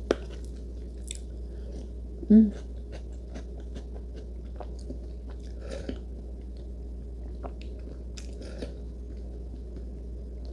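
A person chewing and biting leftover taro close to the microphone: soft scattered mouth clicks and chewing sounds, with one short, louder voiced 'mm' about two and a half seconds in. A steady low hum sits underneath.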